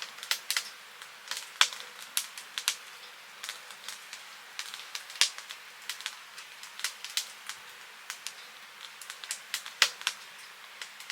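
Firewood crackling as it burns: irregular sharp pops, several a second, with a few louder ones, over a faint steady hiss.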